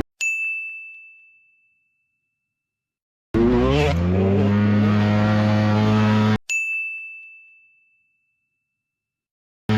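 A single high bell-like ding sound effect rings out and fades over about a second and a half, then total silence. Then a dirt bike engine revs up and holds high revs for about three seconds before being cut off abruptly. A second identical ding follows, fading into silence again.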